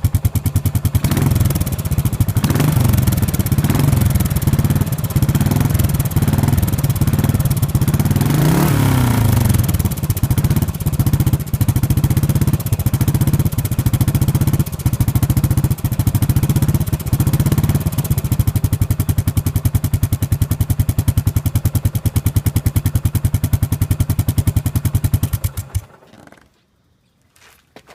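Yamaha SR400's air-cooled single-cylinder engine running through a POSH Triumph-style muffler, idling with a few blips of the throttle. The engine is switched off and stops abruptly near the end.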